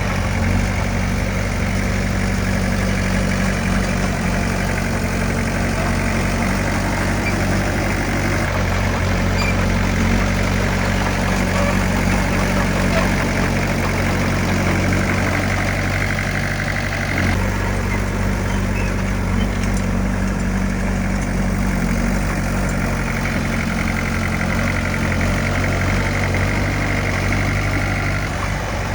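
Heavy diesel engine of earthmoving equipment running steadily, with a low, even drone; its note shifts slightly a little past halfway through.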